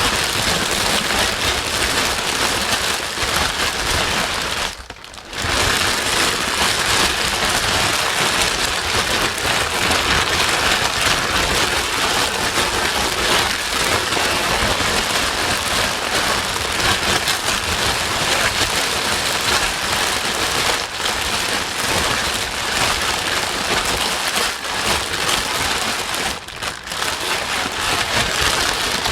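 Steady white noise, a loud even hiss spread across all pitches, briefly dropping away about five seconds in.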